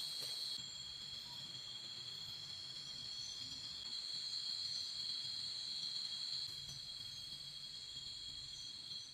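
Chorus of insects, crickets or similar, trilling continuously at a few high pitches, with a faint low background hum.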